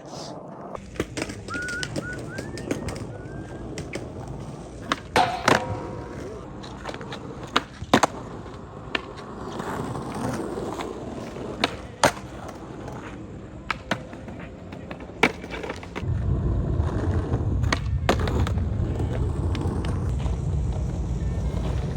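Skateboard rolling, with sharp clacks every few seconds from the board being popped and landed. The rolling gets louder and rougher about three-quarters of the way through.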